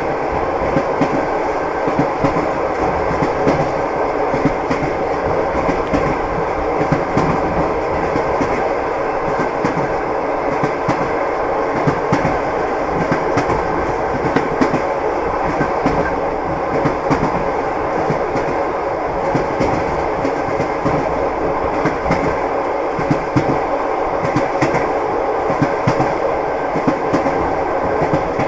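Train wheels running over the rails: a steady rumble with a clickety-clack of wheel knocks recurring about once a second.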